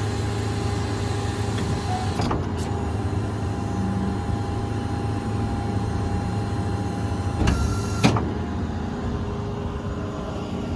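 The 6.7-litre Power Stroke V8 diesel of a Ford F550 idles with the PTO engaged while the hydraulic outriggers are lowered. A steady pump whine runs over the engine and stops about eight seconds in. There is a click a little after two seconds, and a short loud burst of noise just before the whine stops.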